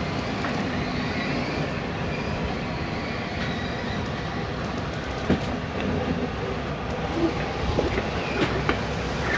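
RV slide-out room retracting: the slide's electric motor and drive run steadily, with a few clicks and knocks in the second half as the room draws in.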